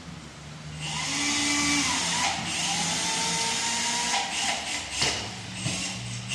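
A power tool runs with a loud hiss for about four seconds, starting about a second in, followed by a few sharp clicks and knocks.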